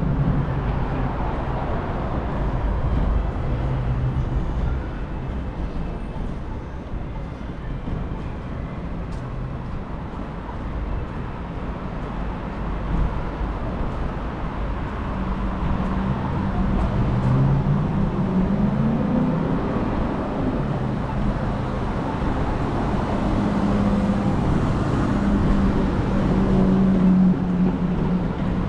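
City road traffic: cars running past with a steady low rumble, and one engine rising in pitch as it speeds up about two-thirds of the way through.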